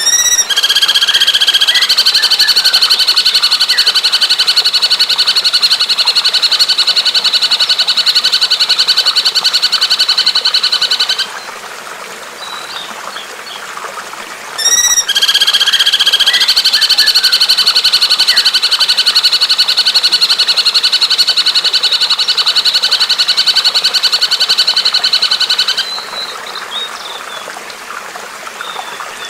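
Recorded songbird call: two long, very fast trills of about ten seconds each, a few seconds apart, each opening with a short rising note. A faint trickle of water runs underneath.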